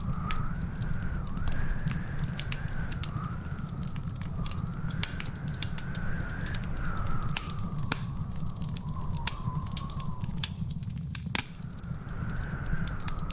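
Wood fire crackling in a fireplace: frequent sharp pops and snaps over a steady low rumble of burning. A thin whistling tone wavers slowly up and down behind it.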